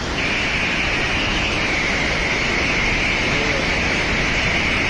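Flash-flood torrent rushing past, a loud, steady hiss of fast water with no let-up.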